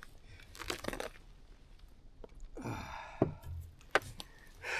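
Close handling noises of rustling and crackling with two sharp clicks, along with short falling breathy exhales from the angler.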